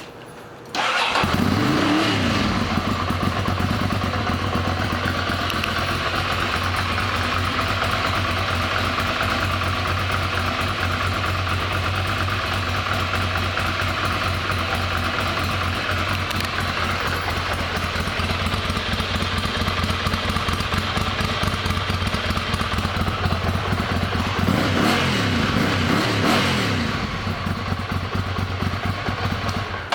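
2009 Ducati Monster 696's air-cooled L-twin engine starting about a second in, revving briefly and settling into a steady idle. Near the end the throttle is blipped a couple of times, and the engine shuts off at the very end.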